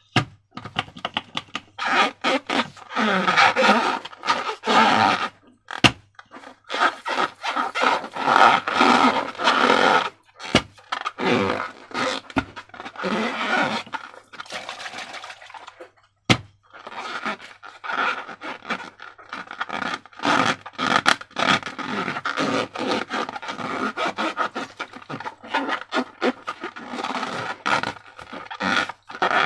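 Slime being handled and worked with balloons: irregular sticky crackling, squishing and scraping in bursts with short pauses, and a few single sharp clicks.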